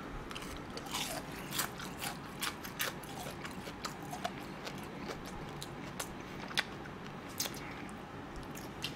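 Close-up chewing of crispy fried chicken: irregular crunches and wet mouth clicks, about a dozen spread through.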